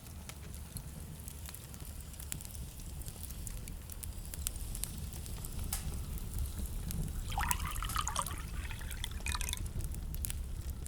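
Wood fire crackling with scattered sharp pops over a low steady rumble. About seven seconds in, a denser bubbling, watery-sounding stretch of crackle lasts about two seconds.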